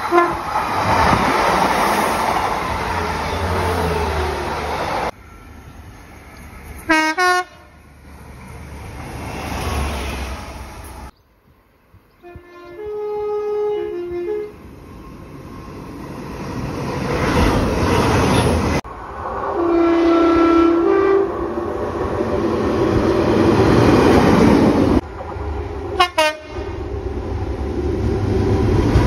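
Trains passing with a steady rumble of wheels on rail, across several short cuts. A multi-note train horn sounds twice, once around twelve to fourteen seconds in and again around twenty seconds in.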